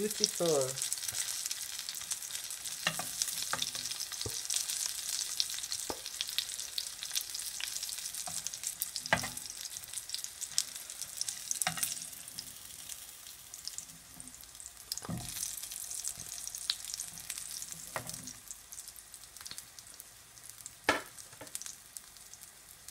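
Breadfruit pieces sizzling in shallow oil in a nonstick frying pan, the crackle fading as the pan empties. A slotted metal spatula clicks and scrapes against the pan every few seconds as pieces are lifted out, loudest near the end.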